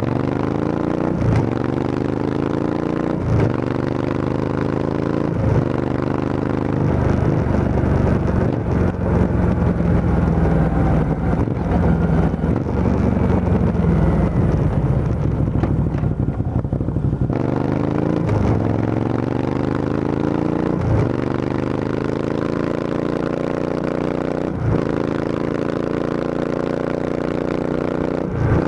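Motorcycle running through an aftermarket Arrow full exhaust system with the dB killer removed. Its note climbs slowly, broken every two seconds or so by short sharp cracks; about midway it levels off and falls, drops away suddenly, then climbs again.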